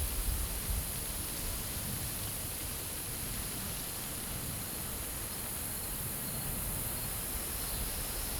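Wind rushing steadily over an open grass field, with a constant high-pitched insect drone underneath. Low wind buffeting on the microphone eases off in the first second.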